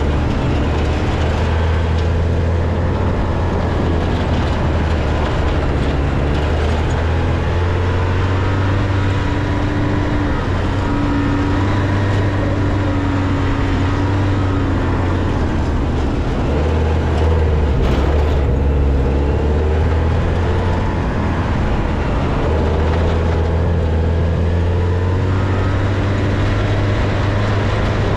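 Porsche 944's four-cylinder engine heard from inside the cabin, driven hard round a dirt rallycross course, its pitch rising and falling with throttle and gear changes. A single brief knock about two-thirds of the way through.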